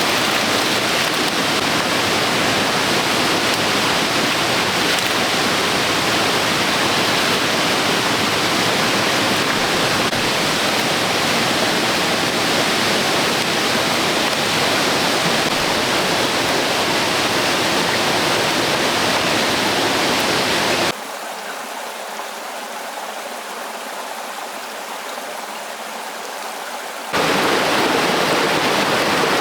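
Steady rushing noise of running water. About two-thirds of the way through it drops abruptly to a quieter, thinner hiss for about six seconds, then returns just as abruptly.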